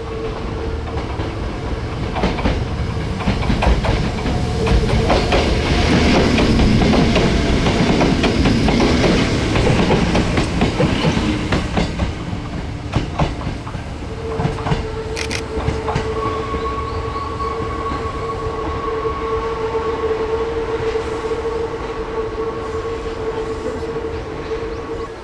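Hakone Tozan Railway electric train running past, its wheels clacking over the rail joints, loudest from about two to twelve seconds in. After it a steady electrical hum with a higher tone above it.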